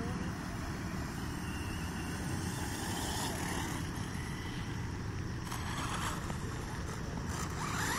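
Radio-controlled truck with a brushless motor running on a 2S LiPo, heard faintly over a steady low rumble, with brief bursts of motor noise a few times as it is driven.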